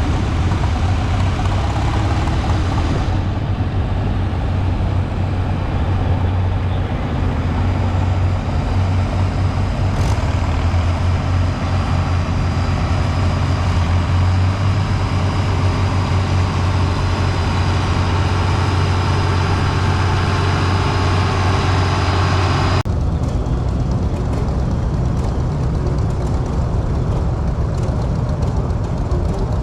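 Engines of antique tractors or machinery running steadily with a low, continuous sound. It changes abruptly about three seconds in and again near the end.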